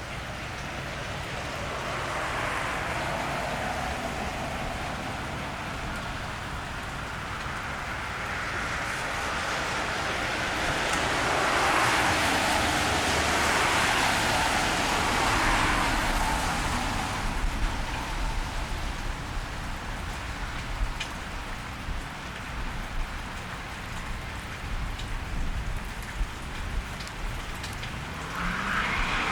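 Steady rain falling on a wet street, with scattered drips. A car passes on the wet road a few seconds in, and a louder one swells up and fades away through the middle, its tyres hissing on the wet road; another begins near the end.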